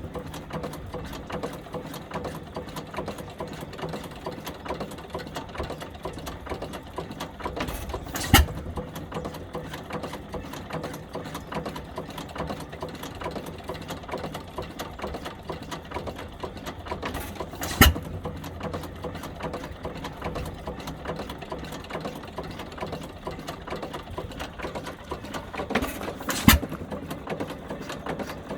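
1908 International Harvester Famous 4 hp hit-and-miss stationary engine running, a rapid steady clatter broken by three loud bangs spaced roughly nine seconds apart, as it fires and then coasts on its flywheels.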